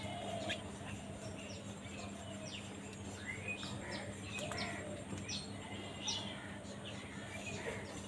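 Birds chirping: a scatter of short, sharp calls, several a second, with a few rougher calls among them and a steady low hum underneath.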